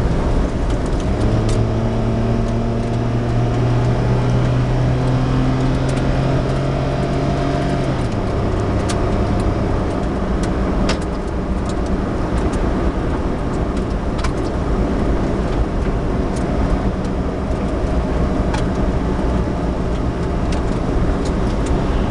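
Suzuki Alto 4WD kei car driving: steady road and tyre noise under the engine, whose note climbs gradually for several seconds, then drops about eight seconds in and fades into the road noise. Scattered light clicks.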